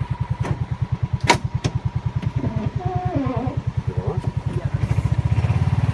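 A small engine running with a steady low throb, its pace picking up a little near the end. A few sharp clicks come in the first two seconds, and a brief voice is heard in the middle.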